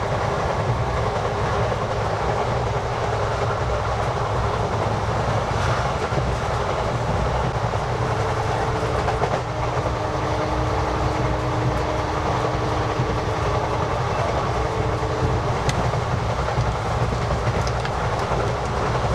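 Indian passenger train running, heard from inside a crowded second-class carriage: a steady, dense rumble and rattle of the wheels on the track. A faint steady tone rides over it for several seconds in the middle.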